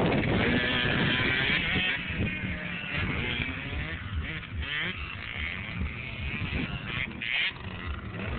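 Kawasaki KX65 two-stroke motocross bike engine revving, its pitch rising and falling as the throttle is worked; loudest in the first couple of seconds, then a little quieter.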